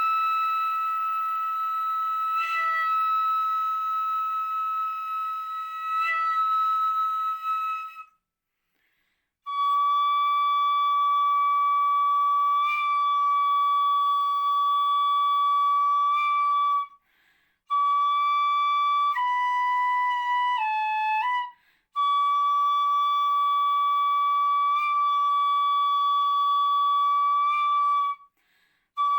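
Solo ryūteki, the bamboo transverse flute of gagaku, playing long held high notes with short ornamental flicks between them. The player breaks off briefly for breath about four times, and a phrase about two-thirds of the way through steps down in pitch twice before climbing back.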